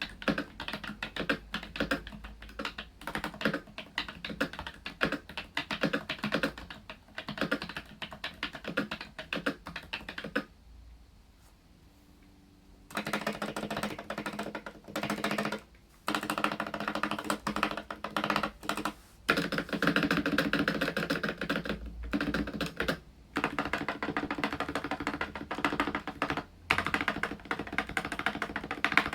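Asus ROG Strix Scope RX mechanical keyboard with ROG RX Red linear optical switches being typed on in a fast run of clicking keystrokes. After a short pause about ten seconds in, the stabilized large keys are pressed in repeated bursts, testing the stabilizers.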